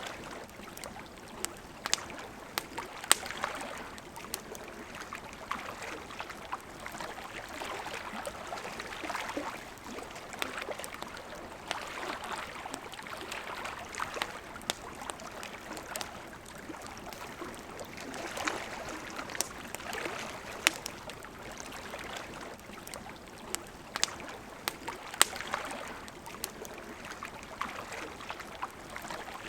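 Wood fire crackling and popping with sharp irregular snaps, over the steady rushing and gurgling of a river.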